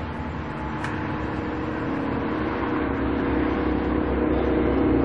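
Car engine running steadily as heard inside the cabin, growing gradually louder, with a brief click about a second in.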